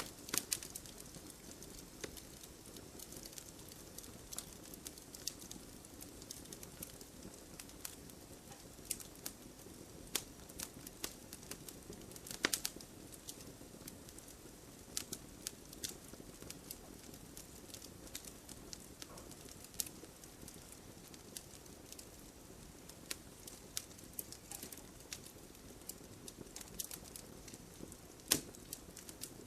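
Wood fire crackling in a fireplace: irregular sharp pops and snaps of burning logs over a soft, steady low rush, with one louder pop about twelve seconds in.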